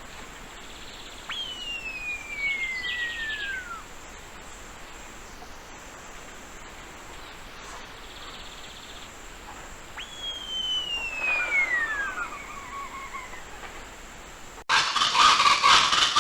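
A bird giving two long whistles about nine seconds apart, each sliding steadily down in pitch over about two and a half seconds, over a steady thin high tone. Near the end the sound cuts suddenly to a much louder, rough noise.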